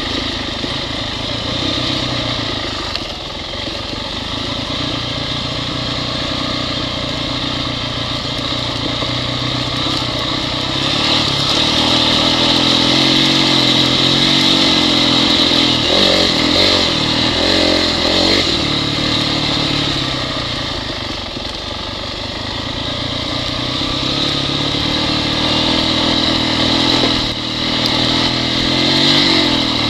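Honda CRF dirt bike's single-cylinder four-stroke engine running continuously, its pitch rising and falling with the throttle, with a few quick blips about halfway through and a rev rise near the end.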